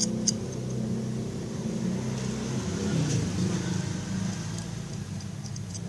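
A motor or engine running steadily with a low hum.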